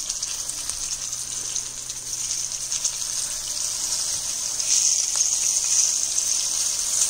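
Breaded fish fillets sizzling in hot oil in a frying pan, a steady high hiss that grows louder a little over halfway through.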